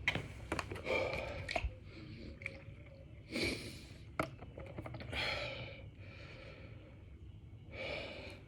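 A man breathing hard from burpee exertion, one loud breath every two seconds or so, with light clicks and knocks between the breaths.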